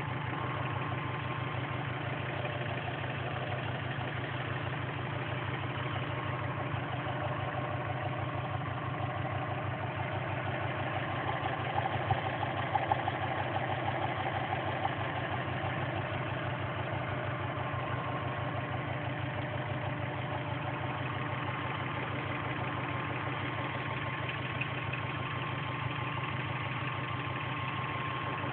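Subaru Impreza's flat-four boxer engine idling steadily with a fast, even ticking, which the uploader puts down to piston slap or valve noise. A few louder ticks come about twelve to thirteen seconds in.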